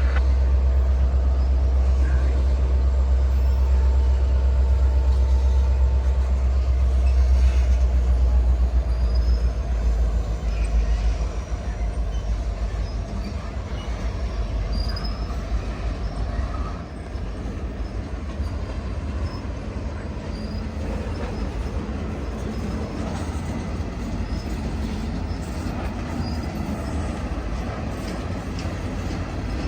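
Freight train rolling past on steel rails: a steady clatter and rumble of wheels on track, with faint wheel squeal. A heavy low rumble dominates for the first ten seconds or so and then eases, leaving a lighter, even rolling sound.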